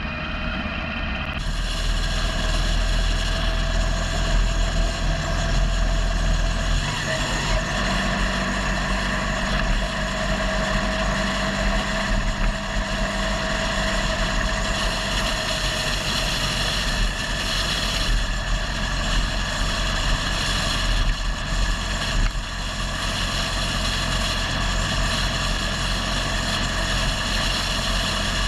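Motorcycle engine running under way with rushing wind noise. The rush grows about a second in, and the engine note shifts to a new pitch about seven seconds in.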